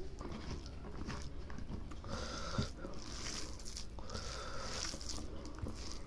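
Close-miked chewing of mithun skin curry and rice, with moist mouth clicks and smacking, along with a hand squishing and mixing rice on a banana leaf.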